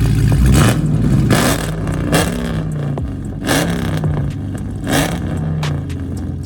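Loud straight-piped car engine, with no catalytic converters, resonators or mid muffler, revved in about five quick blips, each rising and falling in pitch, settling back to idle between them.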